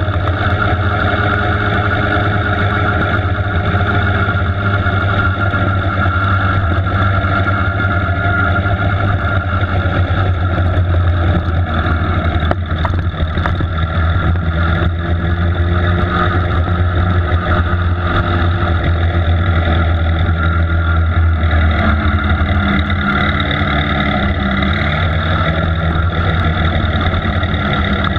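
Speedway racing engine heard on board the machine, running hard at a loud, steady note through a race lap with little change in pitch.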